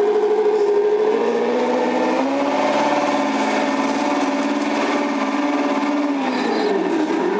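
Turbo9 sound module in a 1/14 scale Tamiya Knight Hauler RC truck playing a simulated diesel truck engine through its small speaker. The engine sound revs up about two seconds in, holds, and winds back down near the end.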